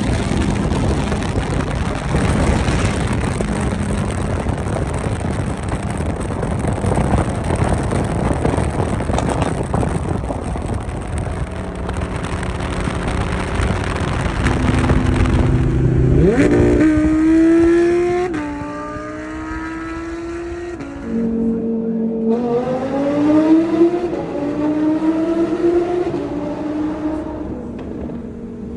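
Straight-piped Audi R8's V10 engine under way, then accelerating hard: the exhaust note climbs through the revs about halfway through, drops sharply at a gear change, then climbs again before easing off near the end.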